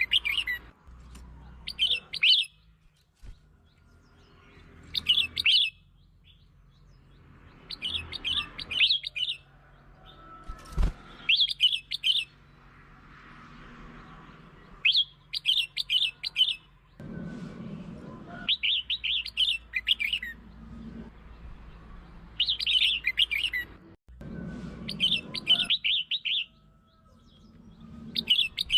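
Red-whiskered bulbul singing: short bright phrases of a few quick notes, repeated every couple of seconds.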